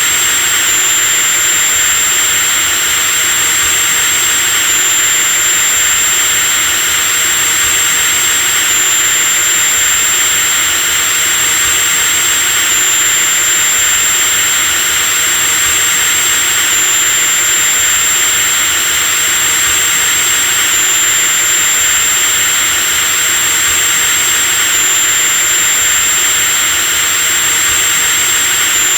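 Electric drill motor running continuously at a steady speed: a dense hiss with a thin, high whine on top.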